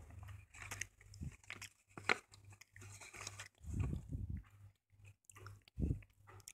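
Slate pencils being chewed: a string of irregular crunches of soft stone between the teeth, with louder crunches about two, four and six seconds in.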